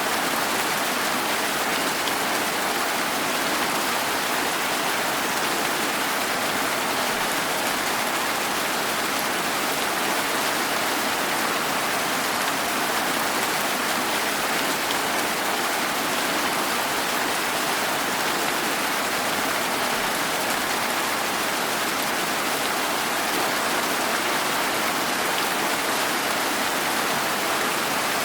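Steady rain falling outside, an even hiss with no change in strength.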